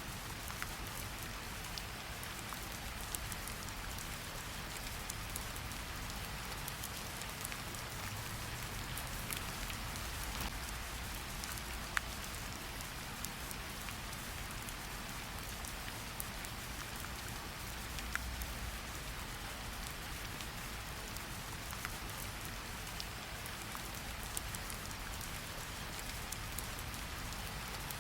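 Steady rain hiss with scattered small crackles and pops from a wood fire; a couple of sharper pops stand out, one near the middle and one a little later.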